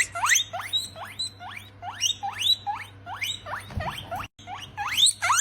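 Rabbit squeaking repeatedly: a quick run of short, high squeaks, each sliding sharply upward in pitch, about three a second.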